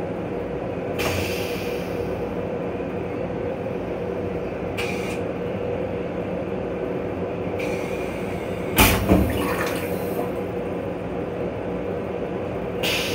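Steady rumble and hum of a Metro-North M7 electric railcar, heard from inside its restroom. Short hisses come a few times, and a loud double knock sounds about nine seconds in.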